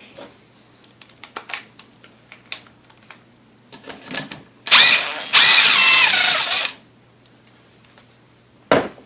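Small clicks and clatter of parts and tools being handled. About halfway through, a power drill/driver runs in two short bursts totalling about two seconds, its whine shifting in pitch, while fasteners come out of the mixer. A single sharp knock follows near the end.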